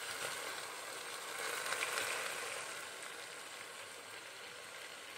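Boiled chickpeas frying in onion-tomato masala in a pot, giving a steady sizzle as a wooden spoon stirs them, a little louder about two seconds in.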